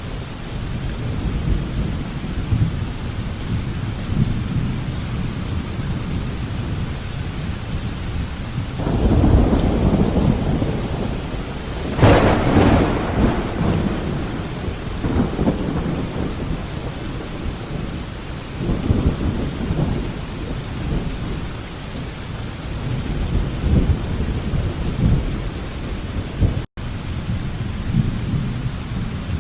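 Thunderstorm: steady rain with continuous low thunder rumbling. A rumble swells about nine seconds in, then a sharper, close crack of thunder about twelve seconds in rolls away into further rumbles. The sound cuts out for a split second near the end.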